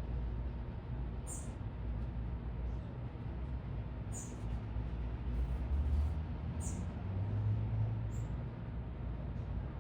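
Small birds giving short, very high-pitched chirps, about five spaced a second or more apart, over a steady low rumble of city traffic that swells a little past the middle.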